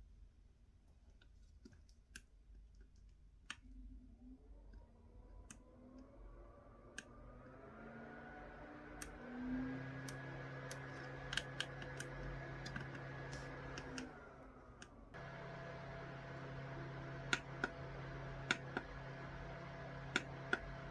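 Small desk fan's motor starting and speeding up, its hum rising in pitch over several seconds, then running steadily. About fourteen seconds in it dips briefly and jumps straight back to a steady hum, as if switched between speed settings. Light clicks of handling and button presses throughout.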